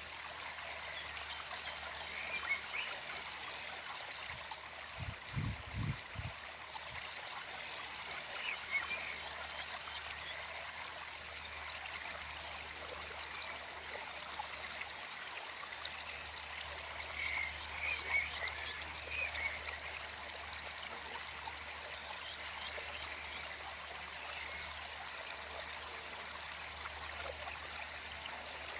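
Forest stream flowing steadily, with a short animal call of quick pulses repeated four times, several seconds apart. A brief low rumble about five seconds in.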